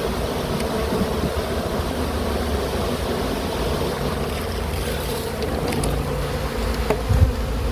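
Honeybees from an opened wild colony buzzing steadily in a dense swarm, with a low rumble of wind on the microphone.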